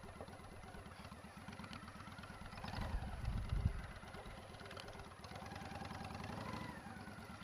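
Motorcycle engine running at low revs, swelling briefly about three seconds in.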